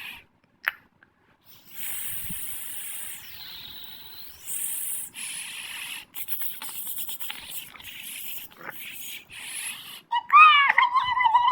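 A cat meowing loudly near the end, a drawn-out, bending call. Before it come a few sharp clicks, then several seconds of high hissing noise.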